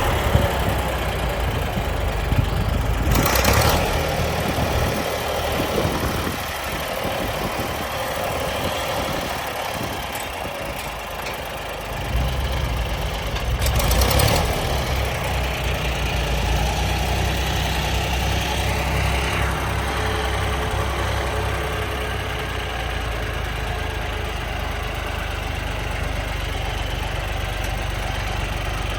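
John Deere 1020 tractor engine running at idle with a low, pulsing rumble. It eases off about six seconds in and comes back stronger about twelve seconds in, with two brief louder rushes near four and fourteen seconds.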